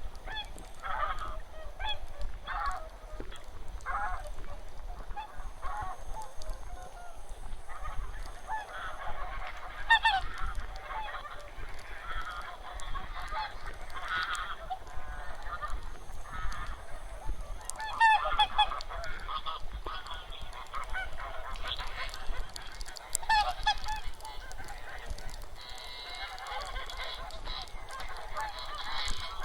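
A large flock of wild geese and swans honking, many short calls overlapping in a continuous chorus, with a few louder calls standing out now and then.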